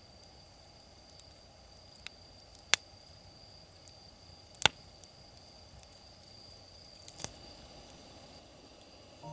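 An insect's steady high-pitched trill over quiet outdoor ambience, broken by four sharp clicks, the loudest about two and a half and four and a half seconds in.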